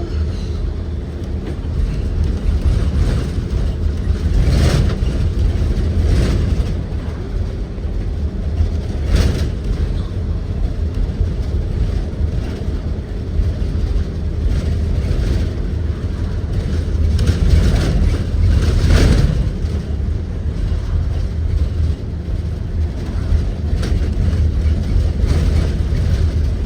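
Ride noise inside a 2023 Blue Bird Vision school bus under way: a steady low rumble from its Ford 7.3-litre V8 and the road. Several brief knocks and rattles stand out over it, the loudest about four and a half seconds in and near nineteen seconds.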